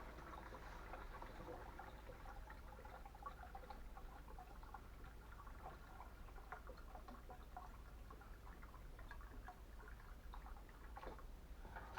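Faint trickling and dripping of water draining from a heating pipe, with many small scattered drips over a steady low hum.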